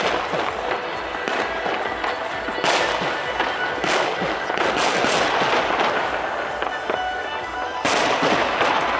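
Fireworks display: aerial shells bursting with a series of loud bangs, several close together in the middle and another near the end, over continuous crackling.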